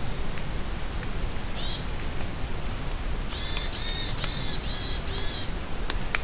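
Steady rain falling in a forest while a bird calls: one short call about a second and a half in, then a quick run of five loud calls in about two seconds.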